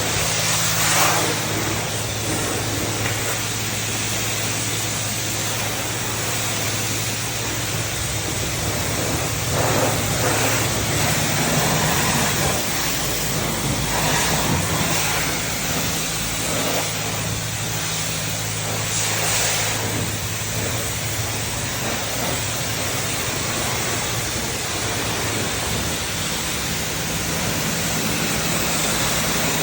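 Self-serve car wash high-pressure wand spraying wax: a steady hiss over the low, even hum of the wash pump, with several brief louder surges.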